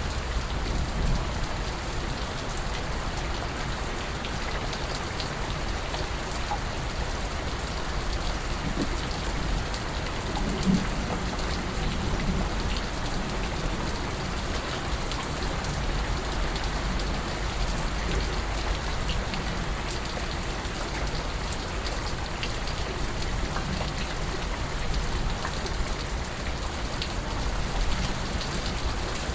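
Steady rain falling, with scattered individual drips landing on a surface and a few louder drops.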